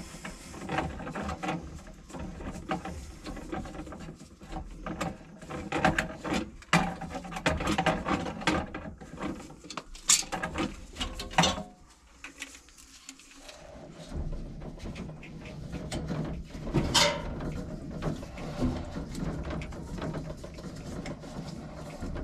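Irregular mechanical clicking, rattling and knocking from hand work with plumbing tools and fittings, with a brief quieter spell about halfway through and a sharp knock a few seconds later.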